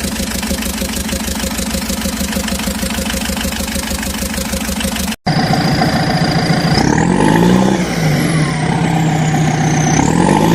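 Tractor engine running with a steady, even pulse. About halfway it cuts off suddenly and gives way to an engine revving, its pitch rising and falling, with a high whine sweeping up and down.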